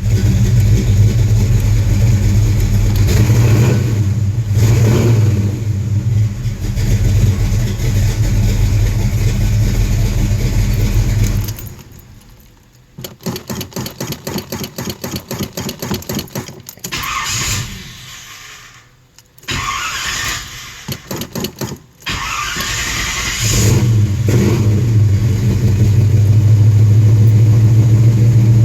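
A classic car's engine is running cold when it dies about a third of the way in. The starter then cranks it in two runs of even, rapid churning, and the engine catches again near the end and runs steadily.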